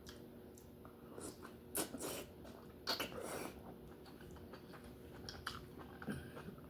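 Close-miked eating of lobster: irregular bites and chewing, with short crunchy, wet mouth sounds, strongest around two and three seconds in.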